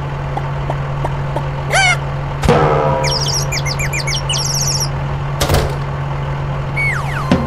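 Birds chirping in quick, short phrases over a steady low hum, with a single knock about two and a half seconds in and a sharp click a few seconds later.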